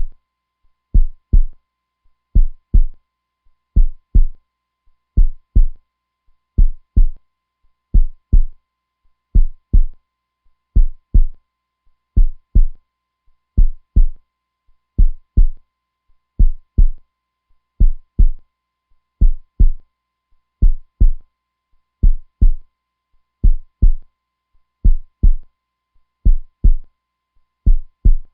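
Heartbeat sound: a steady, slow double thump (lub-dub) repeating about every one and a half seconds, deep and low.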